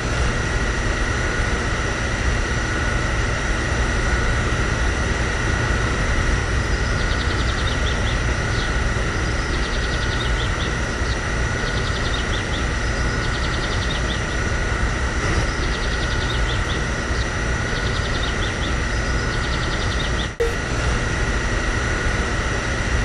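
A steady mechanical running sound with a constant high whine. It starts and stops abruptly and drops out for a moment about twenty seconds in.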